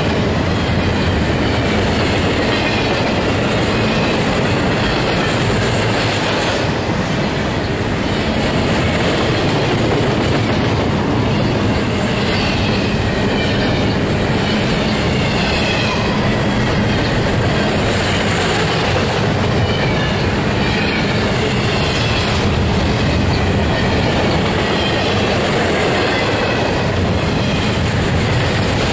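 Double-stack intermodal freight train's well cars rolling past close by: a steady, loud rumble of steel wheels on rail, with clickety-clack over the rail joints.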